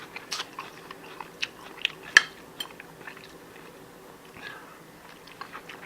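A person chewing food, with scattered small crunches and clicks and one sharper click about two seconds in.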